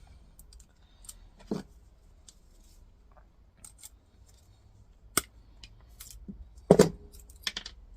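Scattered sharp clicks and metallic clinks of a small metal hinge, with aluminium pieces, a stainless steel pin, steel springs and a circlip, being worked apart by hand. The loudest knock comes near the end.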